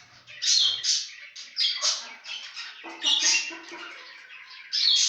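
Zebra finches calling: a busy run of short, nasal, honking call notes from several birds overlapping, coming in louder clusters every second or so.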